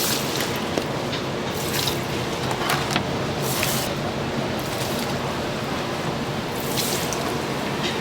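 Doughnuts deep-frying in hot oil: a steady sizzling hiss with a few brief sharper crackles.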